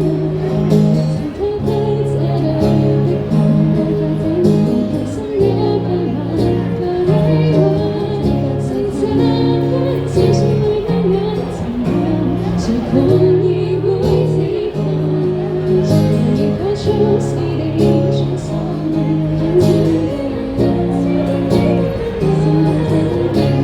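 Live band music with singing: steady bass notes held under a wavering sung melody.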